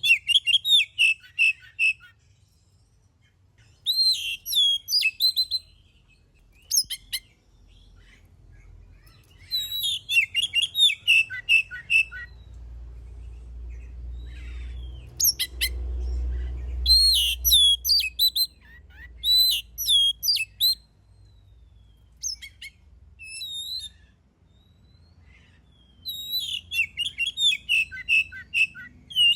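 Oriental magpie-robin (kacer) in full song: bursts of rapid, varied high notes and sweeps, with pauses of a few seconds between phrases. A low rumble swells under the song in the middle.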